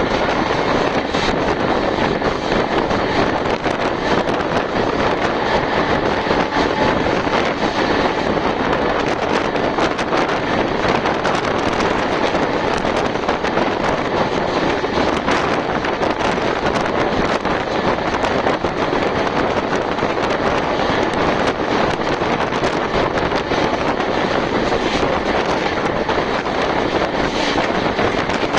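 Superfast express train running at speed, heard at a carriage window: a steady rush of wind and running noise with faint scattered clicks from the wheels.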